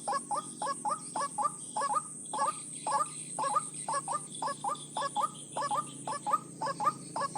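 White-breasted waterhen (ruak-ruak) calls: a fast, even run of short, croaking notes, about three a second, with a couple of brief pauses. A steady high-pitched tone runs underneath.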